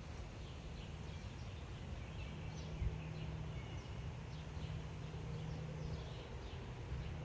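Small birds chirping, with many short calls over a low steady hum and rumble.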